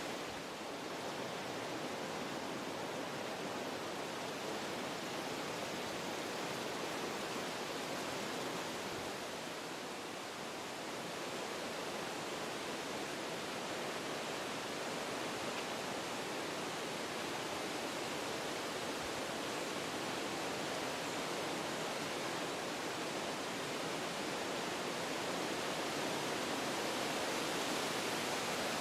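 Wind blowing through forest trees: a steady rush of moving leaves and branches that eases slightly about ten seconds in, then builds gradually toward the end.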